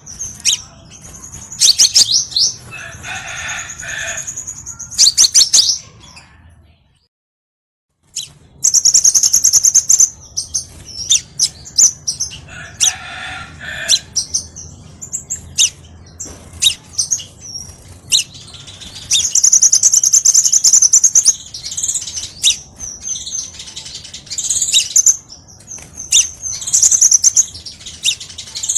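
Crimson sunbird song: loud, high-pitched rapid trills and sharp chips, repeated in bouts, with a brief silent gap about seven seconds in.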